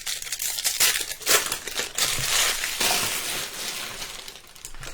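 Trading-card pack wrappers crinkling and crumpling in the hands as packs are opened and handled, in uneven swells with a few small clicks.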